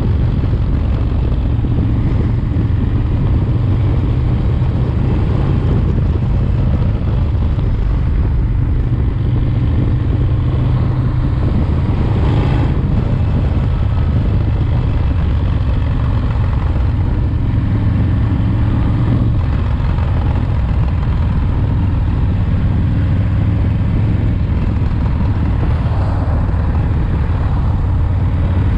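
Harley-Davidson FXRT's rebuilt S&S 107ci V-twin running steadily under way during engine break-in, with road and wind noise. The engine note drops a little about halfway through.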